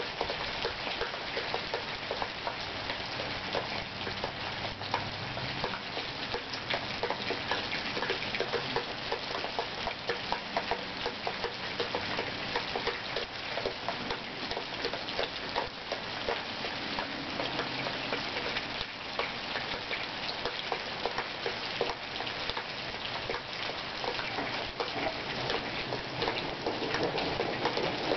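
Steady rain in a thunderstorm: a dense patter of drops, getting a little louder near the end.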